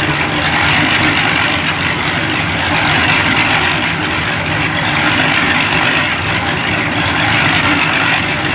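An engine running steadily at idle, a low rumble under an even hiss.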